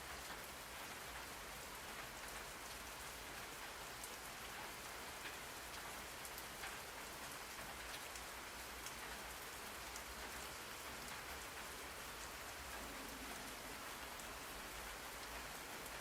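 Steady rain falling, an even hiss with scattered small drop ticks, played as a white-noise backdrop.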